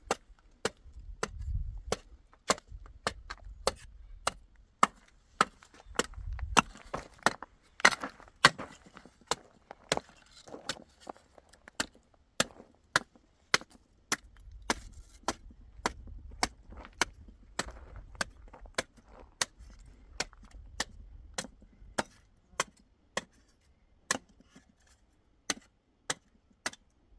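Hammer striking wood in a steady run of sharp blows, nearly two a second, with a short pause near the end.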